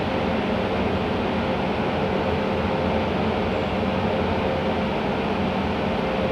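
Steady ambient drone: an even rushing noise with a faint, unchanging hum in it.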